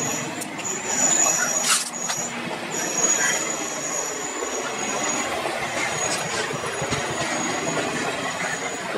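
Passenger train of blue ICF coaches rolling past: a steady rumble of wheels on rail, with a high, thin squeal that breaks off and returns, and a few sharp clacks over the rail joints, the strongest about two seconds in.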